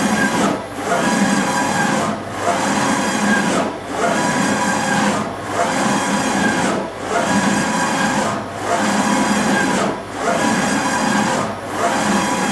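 Brand 850 NE CNC surface grinder running, a steady machine noise carrying several fine steady tones, that dips in level regularly about every one and a half seconds.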